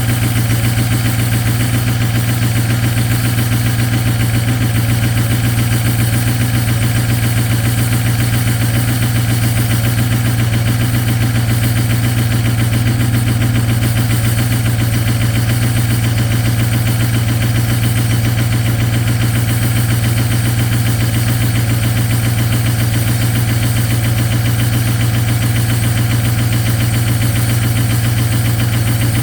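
Ford 6.0 Power Stroke V8 turbo-diesel idling steadily on its cold-start high idle at subzero temperature, with a fast, even diesel clatter over a low hum. It is running on partially gelled diesel fuel.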